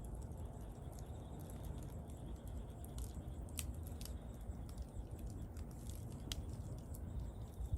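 Wood fire burning with a steady low rumble of flames and scattered crackles and pops, the sharpest at about three and a half and six seconds in.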